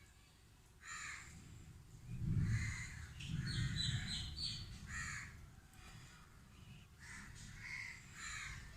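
Crows cawing repeatedly, in short harsh calls, with a low muffled knocking about two to four seconds in.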